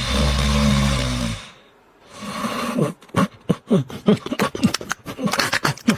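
A dog's vocal sounds: a low, rough rumble for the first second and a half, then from about three seconds in a quick series of short cries, each falling in pitch.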